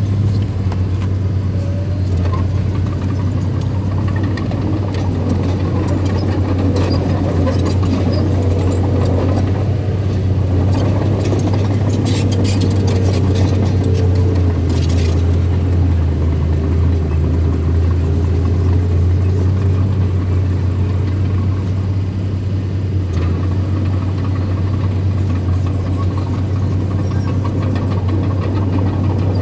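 Engine of earthmoving machinery at a soil-filling site, running steadily with a deep hum, with a few sharp clicks and knocks about halfway through.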